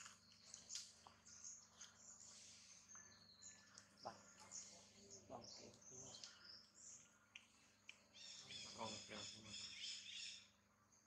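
Faint birds chirping and calling. A fast, high trill runs for about two seconds near the end.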